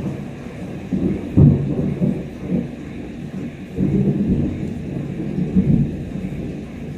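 Thunder rumbling over steady rain. The rumble swells twice, with a sharp crack about a second and a half in and a longer roll from about four to six seconds in.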